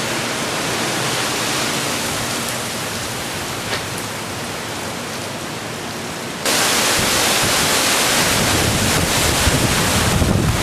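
Heavy hurricane rain pouring steadily. About six and a half seconds in it suddenly gets louder, with gusting wind rumbling on the microphone.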